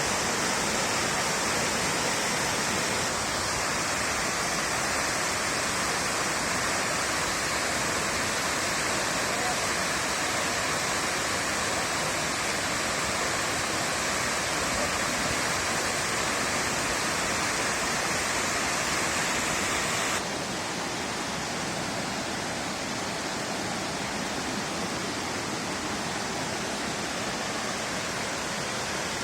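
Waterfall water pouring down: a steady rushing hiss. About two-thirds of the way through it drops suddenly to a somewhat quieter, duller rush.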